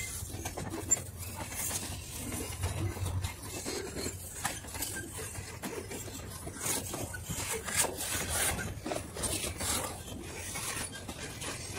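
Freight cars rolling past on steel wheels: a continuous rattle and rumble of wheels on rail, with scraping noise and many irregular knocks.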